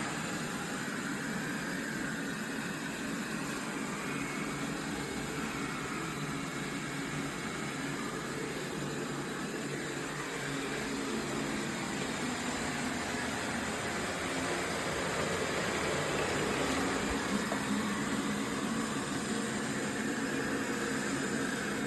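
Dreame D20 Pro Plus robot vacuum running: a steady whir of its suction fan over a low hum, growing a little louder about two-thirds of the way through.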